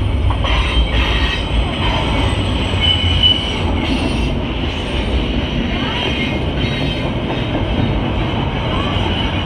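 Double-stack container freight train rolling past: a steady low rumble of wheels on rail, with a high-pitched wheel squeal coming and going and a few knocks from the cars.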